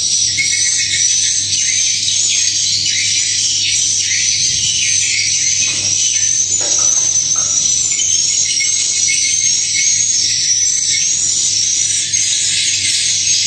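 Edible-nest swiftlet calls: a dense, continuous high-pitched twittering of many overlapping chirps, with a faint low hum beneath.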